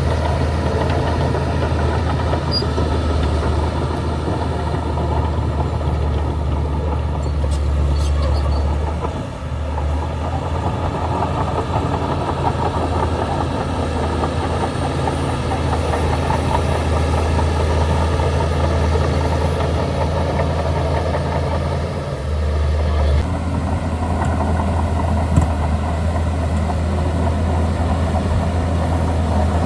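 Bulldozer's diesel engine running steadily with a deep, continuous drone, easing off briefly about nine seconds in and again a little after twenty-two seconds.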